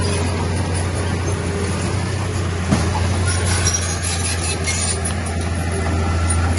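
Heavy diesel engine of earth-moving machinery running steadily with a deep constant hum, with one sharp knock about two and a half seconds in.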